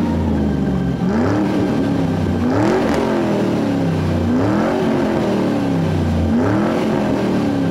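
Car engine sound effect revving again and again: the pitch climbs and falls back about four times over a steady low rumble.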